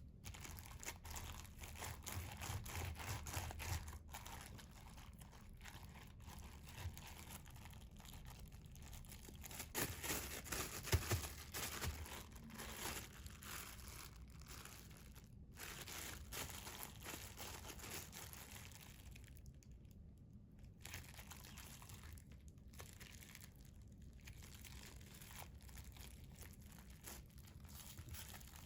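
Cut cucumbers being kneaded by hand in a plastic bag: the bag crinkling and rustling, with a few louder handfuls.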